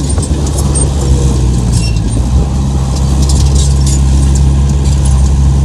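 The heavy diesel engine of an earthmoving machine running steadily under load, with light high-pitched clinks and squeaks over it.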